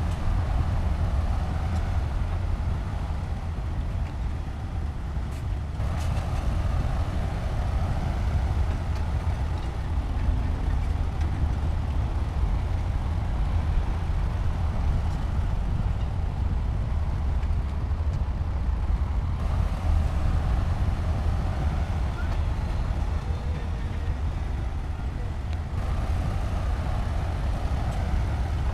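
Heavy diesel engine of construction machinery running steadily with a deep low rumble, its mid-range noise shifting in level a few times.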